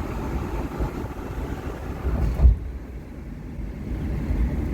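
Road rumble of a moving car with wind buffeting the microphone, and one sharp thump about halfway through, after which the hiss drops.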